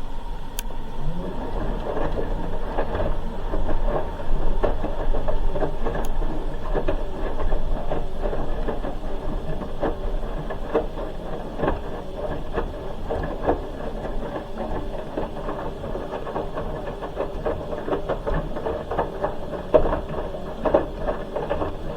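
Hoover H-Wash 300 Plus washing machine running a wash, its drum turning the wet load with many irregular soft knocks and swishes over a steady mechanical hum.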